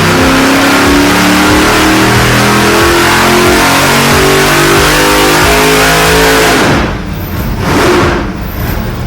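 Fuel-injected 632 cubic inch big-block Chevy V8 on an engine dyno, running loud at high revs with its pitch climbing steadily. About seven seconds in the revs fall away, it gives one short rev, then it runs lower and quieter.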